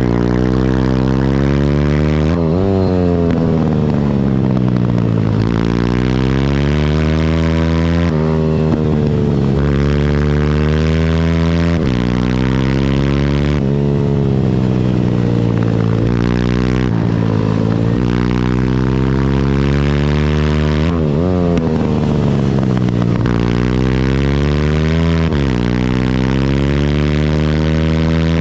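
Pitbike engine revving hard through the gears and easing off again and again: the pitch climbs, steps down at each shift, then falls away for a corner before the next pull, about every three to four seconds.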